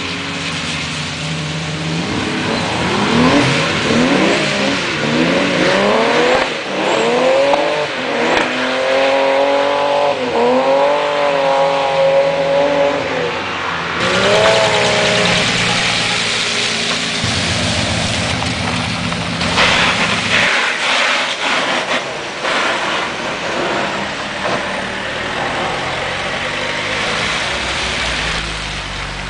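Car engines revving hard, the pitch climbing and dropping again and again as the cars drift, over a steady hiss of tyre spray on a wet track. The sound changes abruptly about halfway through.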